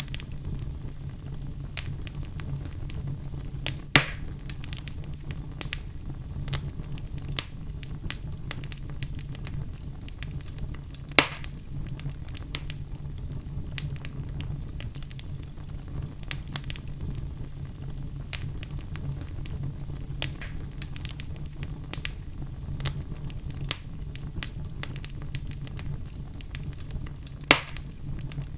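Wood fire of burning logs in a fireplace: a steady low rumble of flame with frequent small crackles, and three loud sharp pops of the wood.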